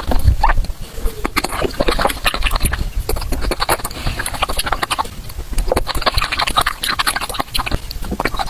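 Loud chewing and mouth smacking on a raw octopus tentacle, a dense, continuous run of small clicks.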